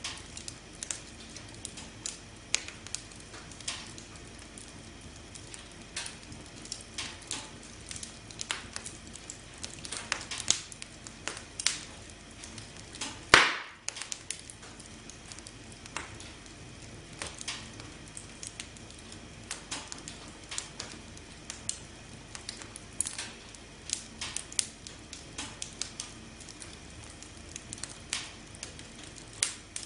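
Wood fire crackling: a steady run of small snaps and pops over a soft hiss, with one much louder pop about halfway through.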